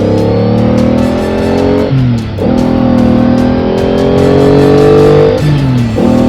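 Engine sound effect of a vehicle accelerating through the gears. Its pitch climbs steadily and drops sharply at each upshift, about two seconds in and again near the end.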